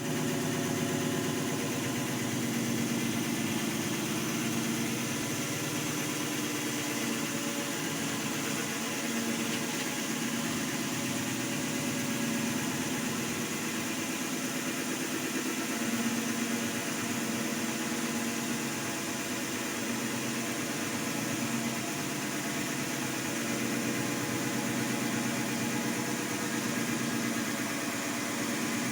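Core drill with a crown bit running steadily under load, boring a hole.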